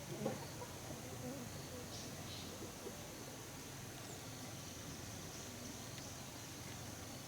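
Rural outdoor ambience: a steady high-pitched insect drone with a few faint bird chirps.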